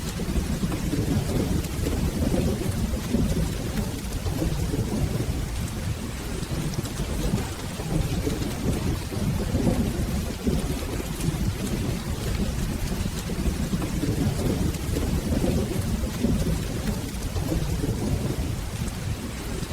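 Steady rain with a continuous low rumble of rolling thunder.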